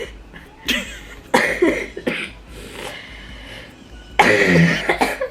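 A person coughing in three harsh bouts, the last and loudest near the end.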